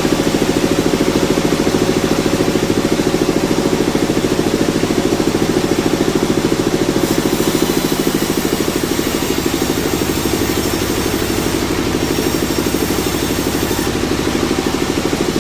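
A sawmill's engine running steadily at an even speed, with a fast, regular pulsing beat.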